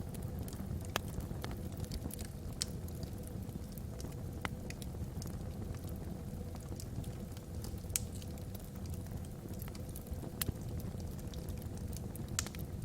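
Wood logs burning in a fireplace: a steady low rumble with sharp crackles and pops at irregular moments, a handful of them, the strongest about eight seconds in.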